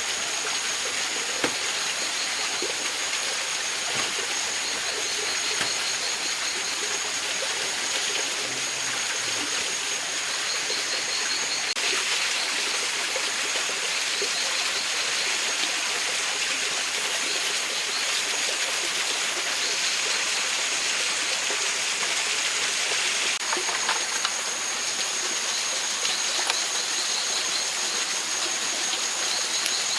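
Mountain stream flowing, a steady rushing of water over stones. A thin high steady whine and short repeated high chirps run over it.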